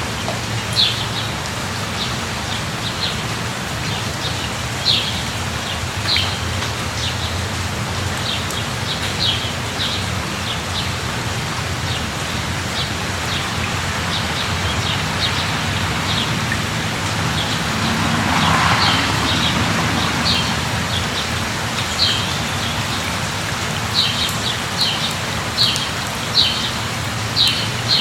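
Steady rain falling, with birds chirping in short calls now and then, more often near the end. About two-thirds through the rain noise swells briefly.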